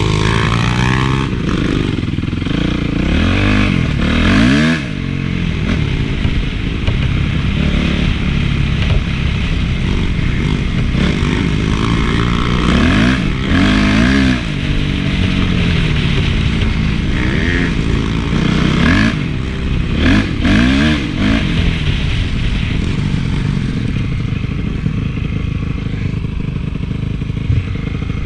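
Honda CRF450 four-stroke single-cylinder motocross engine, revving up and falling back again and again as the bike is ridden, with some rattling.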